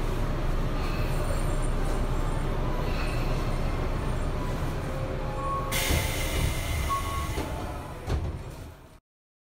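Tobu 9050 series electric train at its terminus, a steady low rumble of the car and its equipment. About six seconds in, a sudden hiss of compressed air lasts a couple of seconds, then the sound fades away near the end.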